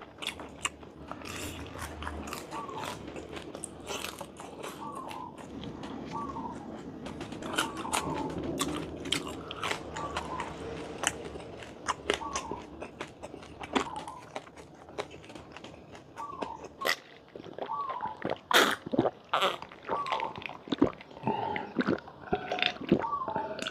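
Close-miked eating of crunchy food: bites and steady, rhythmic chewing with sharp crackling crunches throughout, louder and more frequent near the end.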